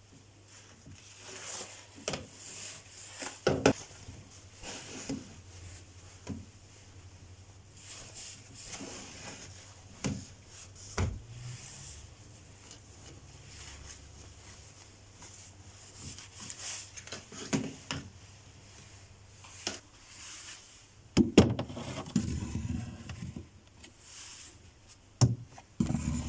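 Light knocks, clicks and rustles of kitchen items being handled and set down, with a louder cluster of clatter about 21 seconds in, over a faint steady low hum.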